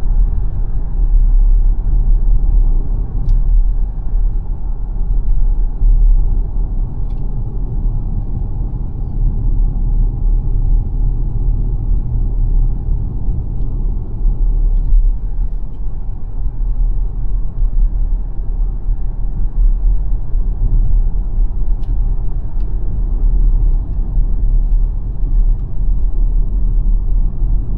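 Steady low rumble of tyres and road noise from the XPENG G9 Performance, an all-electric SUV, as it drives along.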